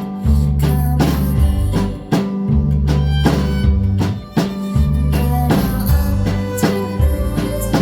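Live pop band playing with a steady beat: deep held bass notes changing about once a second under drum hits and guitar.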